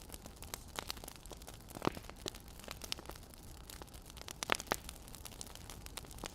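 Firewood burning with an irregular crackle of small pops over a low hiss, and a few louder snaps about two seconds in and again past the middle.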